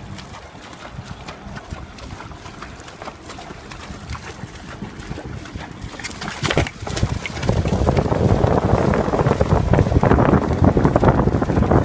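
Wind rumbling on the microphone over splashing water. Both get much louder from about seven and a half seconds in.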